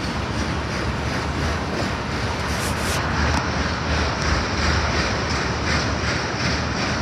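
A train passing close by: a steady rumble and rush of steel wheels on the rails, with repeated clicks over the rail joints growing clearer about halfway through. No horn is sounding.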